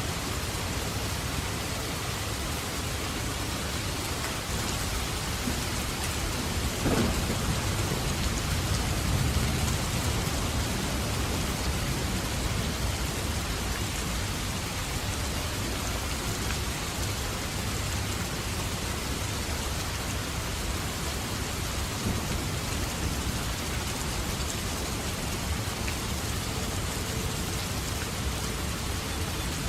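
Steady heavy rain falling. About seven seconds in, a roll of thunder rumbles for several seconds and then fades back under the rain.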